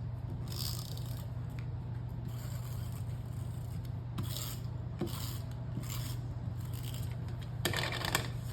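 Paper being handled and rubbed down in short, scratchy strokes, with a louder flurry near the end. A steady low hum runs underneath.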